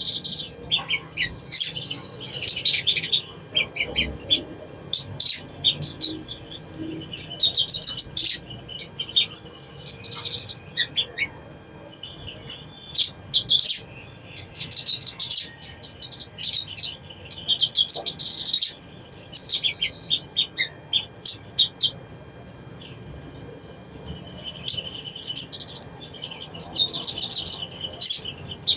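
Brown-throated sunbird (sogon) song: rapid, high twittering and chirping phrases about a second long, repeated with short pauses between them.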